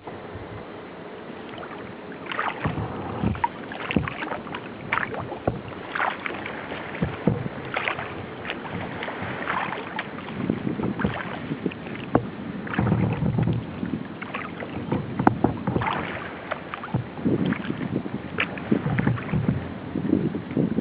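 Kayak paddling on open water: irregular splashes and drips from the paddle about once a second over a steady watery hiss. Wind gusts rumble on the microphone in the second half.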